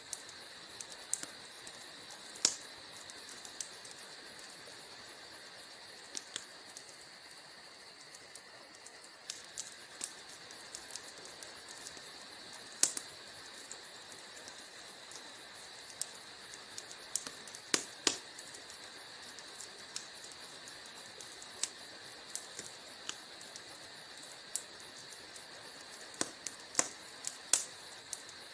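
Wood fire burning in a fireplace: irregular sharp crackles and pops over a steady hiss, with a few much louder pops scattered among many small ones.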